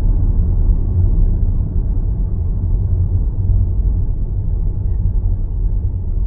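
Car driving along: a steady low rumble of road and tyre noise, easing off slightly near the end.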